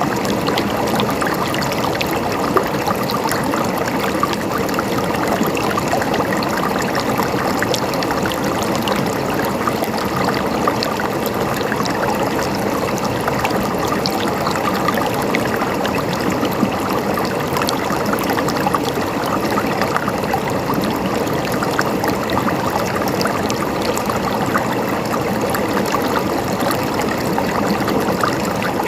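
River water flowing and splashing steadily, a continuous rushing full of small splashes and trickles.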